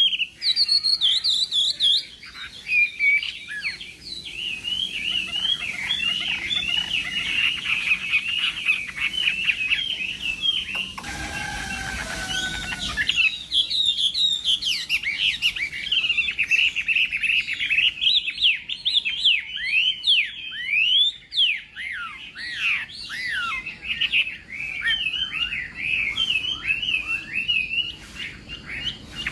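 Chinese hwamei (Garrulax canorus) singing a long, rapid, varied run of loud whistled phrases and trills. The song breaks off for about two seconds near the middle, where a short burst of noise sounds, then resumes.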